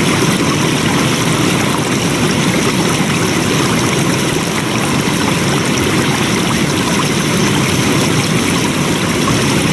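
Flowing water: a stream or river rushing steadily with an even, unbroken splashing noise.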